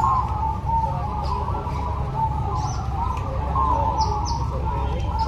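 Chorus of many zebra doves (perkutut) cooing at once, their coos overlapping without a break. Short high chirps come through now and then, over a steady low background noise.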